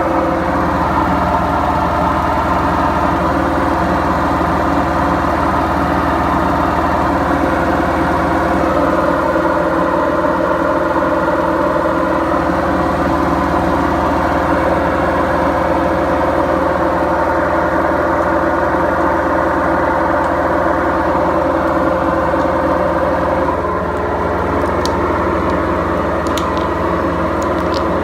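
BEKO washing machine running, its drum turning with a loud, steady mechanical drone and hum from bad drum bearings. The sound shifts slightly about 23 seconds in, and a few faint clicks come near the end.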